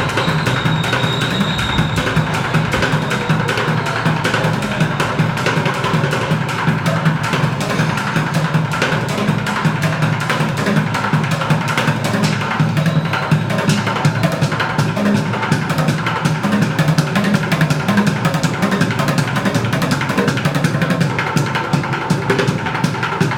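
Fast, steady drumming on upturned plastic buckets: a dense, unbroken stream of sharp stick strikes over deep thuds.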